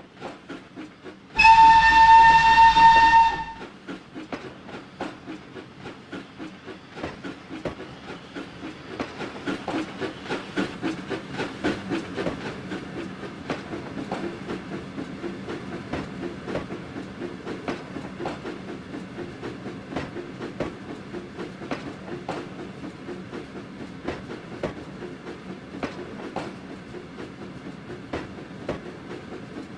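The whistle of the steam locomotive Flying Scotsman, an LNER A3 Pacific, blows once for about two seconds near the start. The train then runs on with a steady rhythmic beat that grows louder after several seconds.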